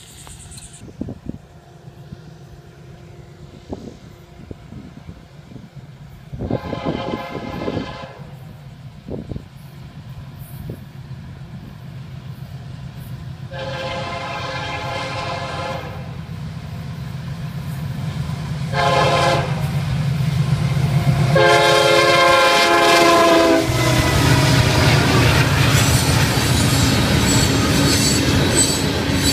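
Florida East Coast freight train approaching a grade crossing, its lead diesel locomotive sounding the horn in the crossing pattern: two long blasts, one short and a final long one, over a low engine rumble that grows steadily louder. About six seconds before the end the locomotives pass close, and the loud rush of the freight cars rolling by on the rails follows.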